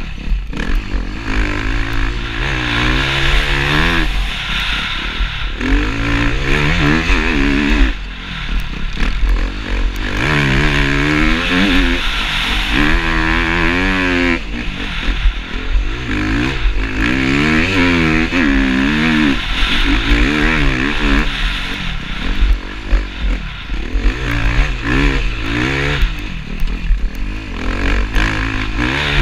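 KTM enduro motorcycle engine revving up and dropping back over and over as the rider accelerates, shifts and brakes through the bends of a dirt track, heard from a helmet-mounted camera with a steady low wind rumble on the microphone.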